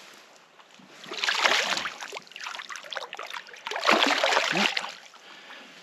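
Water splashing in two bursts, about a second in and again about four seconds in, as a large golden perch is put back into the water.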